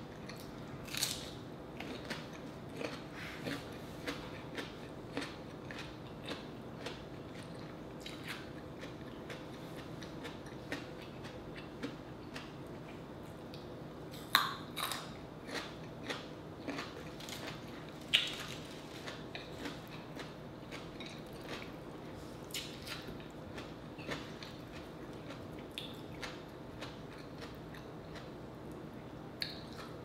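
Close-miked chewing of rotisserie chicken: many short, wet mouth clicks and smacks, two louder ones about 14 and 18 seconds in, over a faint steady hum.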